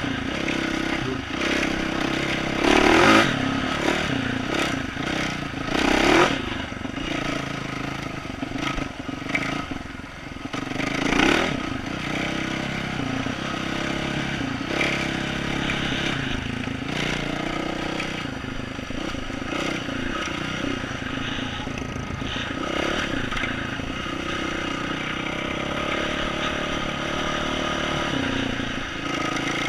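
2012 Yamaha YZ450F single-cylinder four-stroke dirt bike engine with an aftermarket exhaust, riding along with the engine note rising and falling as the throttle opens and closes. Louder surges come about 3, 6 and 11 seconds in.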